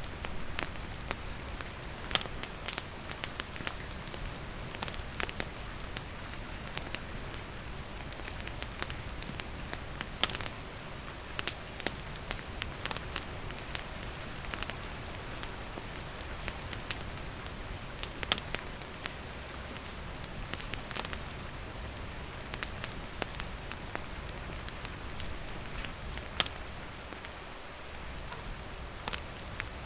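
Steady rain hissing on surfaces, mixed with a wood campfire crackling, its sharp pops coming irregularly about once a second.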